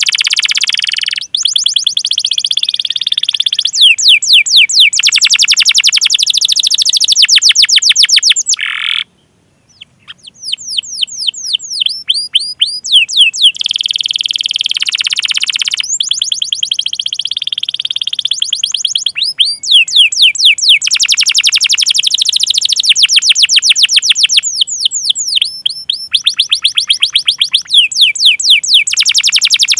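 Domestic canary singing long, fast rolling trills of repeated high sweeping 'cuit cuit' notes, some stretches rapid and dense, others slower and spaced out. The song breaks off briefly about nine seconds in and then resumes.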